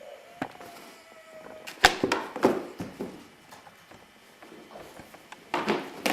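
A dog tearing and knocking at a cardboard shoe box to get at treats inside: sharp crackling and thumping bursts about two seconds in and again near the end.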